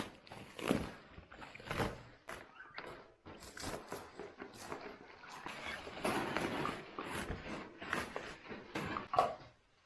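Irregular knocks and clicks with rustling: bird cage parts and their packaging being handled and unwrapped.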